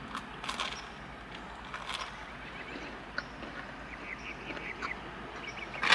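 Close-miked chewing with wet mouth smacks and small clicks, coming in a few short clusters.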